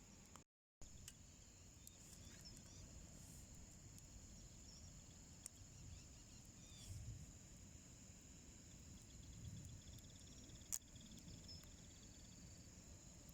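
Faint outdoor ambience: a steady high insect chorus with a short cricket-like trill, and now and then the faint crackle of a wood fire burning in a small homemade wood stove, with one sharper pop near the end. The sound cuts out for a moment about half a second in.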